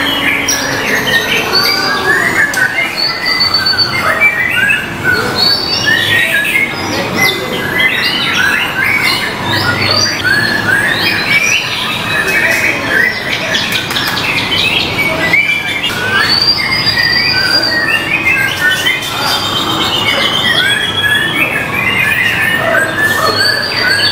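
White-rumped shama (murai batu) song: a continuous stream of varied whistles and rapid chattering phrases, with several birds' songs overlapping.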